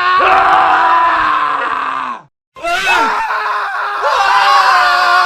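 Men screaming, from a montage of separate scream clips: one long held scream cuts off about two seconds in, a short moment of silence follows, then another wavering scream begins and carries on.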